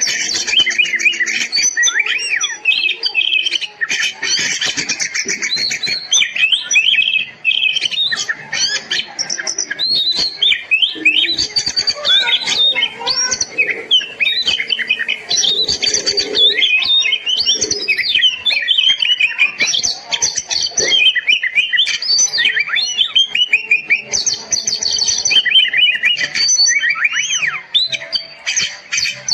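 Oriental magpie-robin (kacer) singing loudly and without pause: a fast, varied run of whistles, chirps and harsher notes that rise and fall, the full song of a bird in 'gacor' form.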